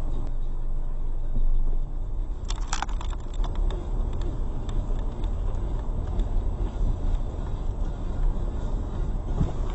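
A car driving, heard from a dashcam: a steady low road and engine rumble, with a short cluster of sharp knocks or clatters about two and a half seconds in.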